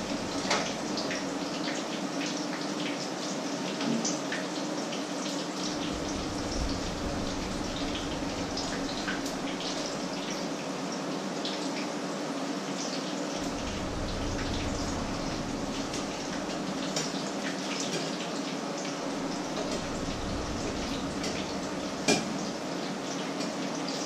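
Patties frying in hot oil in pans, a steady sizzle full of small crackles and pops. One sharp knock sounds near the end.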